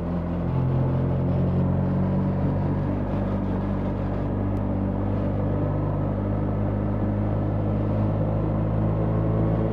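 BMW R 1300 GS's boxer-twin engine running steadily while riding, its pitch stepping up slightly about half a second in.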